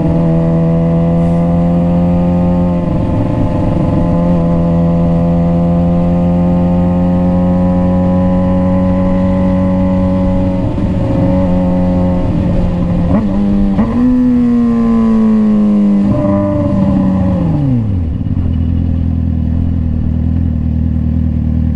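Suzuki GSX-R600 inline-four motorcycle engine holding steady revs under way. A few quick pitch changes come around the middle, then the revs fall away over a few seconds and settle to a low, even idle near the end.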